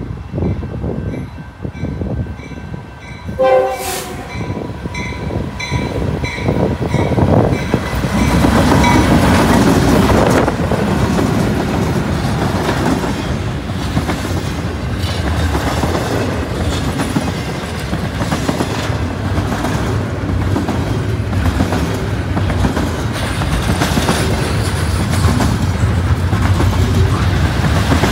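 BNSF intermodal freight train passing close by, led by three GE Dash-9 diesel locomotives. A crossing bell dings repeatedly at the start and there is a short horn blast about three and a half seconds in. The locomotives then go by, followed by double-stack container well cars whose wheels rumble and clack steadily over the rail, loudest from about eight seconds in.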